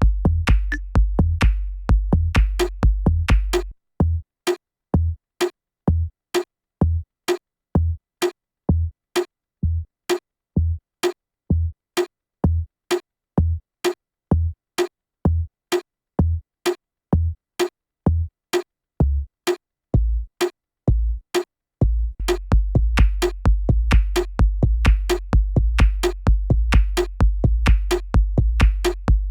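Electronic techno drum loop made with Ableton Live's built-in devices: a kick drum about twice a second with short clicky hits between. A steady deep bass layer under the beat cuts out a few seconds in, leaving the bare drums, and comes back near the end.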